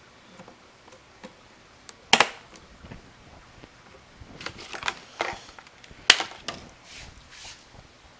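Sharp clicks and knocks of small hard computer parts being handled. The two loudest come about two and six seconds in, with a cluster of lighter clicks and rattles around five seconds.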